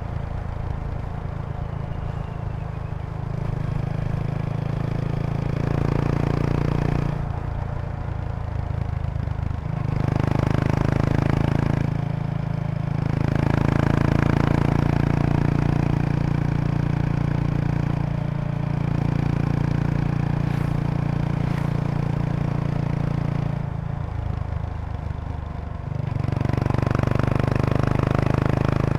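Kawasaki Estrella RS's single-cylinder engine running through an aftermarket Yamato muffler while riding, the exhaust note swelling and easing several times as the throttle opens and closes. A slight buzzing rattle comes from a seat-bag stiffener resonating with the bike's vibration.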